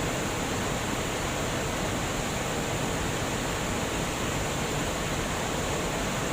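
Water pouring over a dam, a steady unbroken rush.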